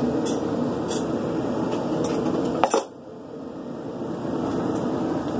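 A few sharp metallic clinks of steel and smithing tools, one louder near the middle, over a steady background rush.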